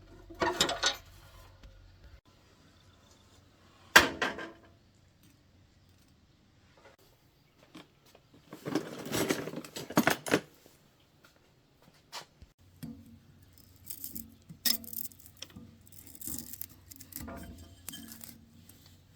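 Metal tools and motor parts clinking and clattering as they are handled on a workbench. There is a sharp knock about four seconds in and a longer run of clatter around nine to ten seconds, then lighter ticks and clinks over a faint low hum.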